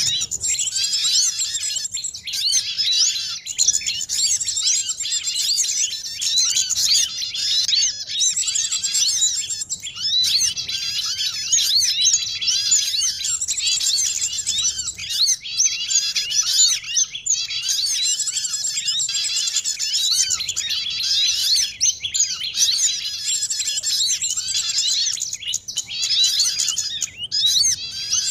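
Many small songbirds chirping and twittering over one another without pause: a dense, busy chatter of high calls. It is a bird-lure track built from the calls of small birds such as sunbirds, white-eyes and prinias.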